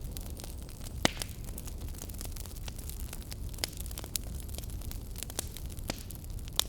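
Wood fire in a fireplace crackling: a steady low rumble of flames with scattered sharp pops, the loudest about a second in.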